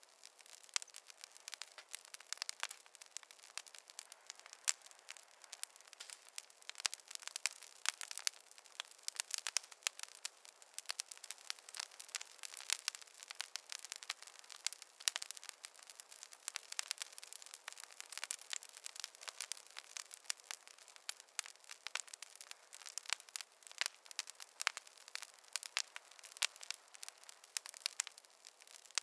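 Wood fire in a fireplace crackling: a dense, irregular run of sharp pops and snaps from the burning logs over a soft hiss.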